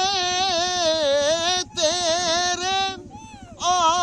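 One high voice singing a slow ghazal line solo, holding long notes with wavering ornaments. It breaks off briefly twice, the second time for about half a second near the end.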